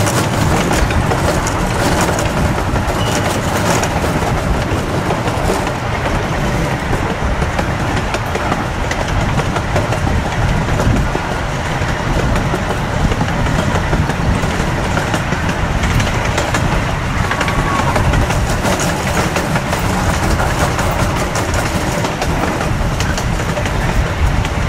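Steady rumble of a moving amusement-park train running on its rails, unbroken throughout.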